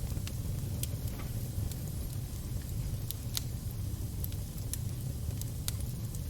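Fire crackling: sharp, irregular pops a few times a second over a steady low rumble.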